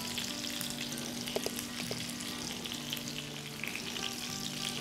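Steady sizzling of chicken seekh kababs cooking on the stovetop, in oil and in simmering water, with a few soft clicks as more kababs are laid into the pan.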